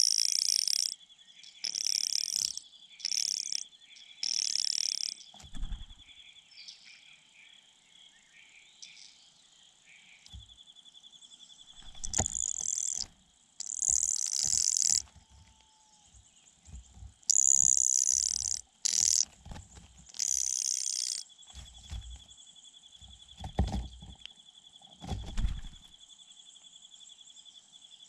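Repeated high-pitched bird chirping in bursts of about a second, over a steady insect trill, with a few soft low thumps.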